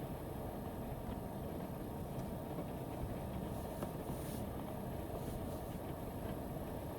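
Heavy typhoon rain on the roof of a Toyota HiAce van, heard from inside: a steady dense drumming with faint scattered ticks.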